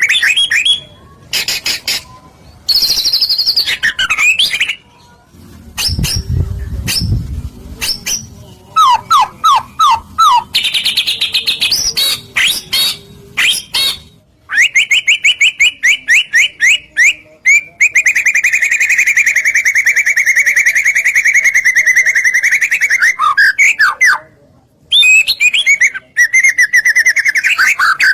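White-rumped shama (murai batu) singing loudly: varied whistled phrases and sweeping notes, then a long fast trill of rapidly repeated notes from about a third of the way in until near the end. A brief low rumble sounds about six seconds in.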